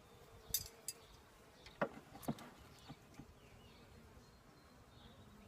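Honeybees buzzing faintly in a steady hum around an open hive, broken by a few sharp clicks and knocks in the first half, the hive's woodwork being handled.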